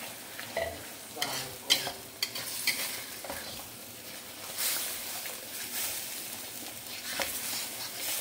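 Blended chili, shallot and tomato spice paste sizzling as it fries in oil in a steel wok, stirred with a wooden spatula that scrapes and knocks against the pan, most often in the first three seconds and once more near the end.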